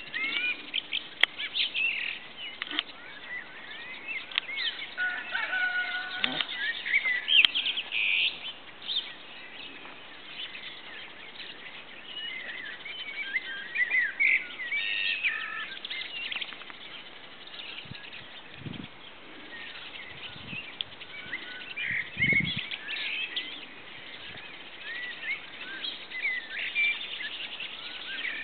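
Small birds chirping and singing throughout, many short rising and falling calls overlapping. A few dull low thumps come in past the middle.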